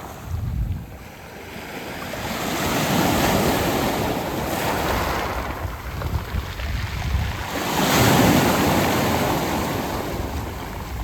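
Waves breaking and washing up a round-pebble beach, in two surges, the second louder and peaking near the end, with wind rumbling on the microphone underneath.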